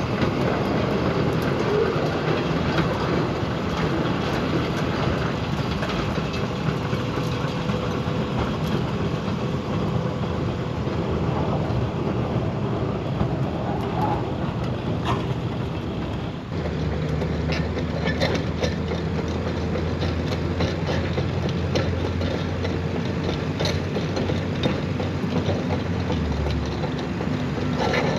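Diesel engine of a Case CX220 tracked excavator running while it is unloaded, with rattling and clanking from its steel tracks; about sixteen seconds in, a deeper low hum comes in and holds for about ten seconds.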